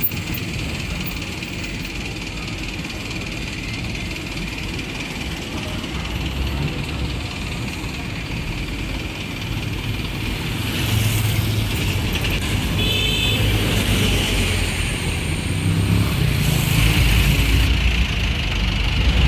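Road traffic running steadily, growing louder toward the end, with a short high beep about two-thirds of the way through.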